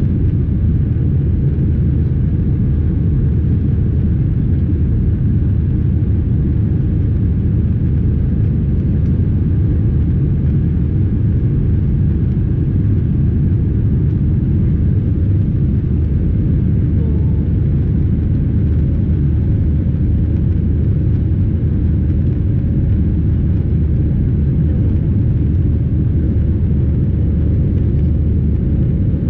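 Steady low rumble of an Airbus A320's engines and airflow heard from inside the passenger cabin, even and unchanging, with a few faint steady tones above it.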